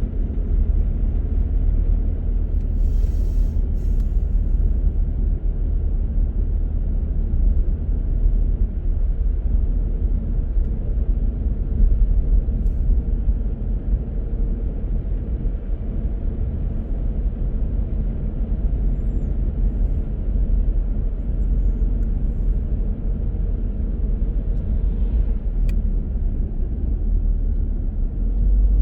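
A car driving at a steady pace, its engine and tyres making a steady low rumble. A brief hiss comes about three seconds in.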